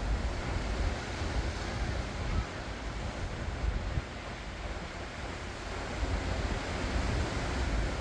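Ocean waves washing onto the shore, a steady rush of surf that eases a little in the middle and builds again, with low rumbling wind on the microphone.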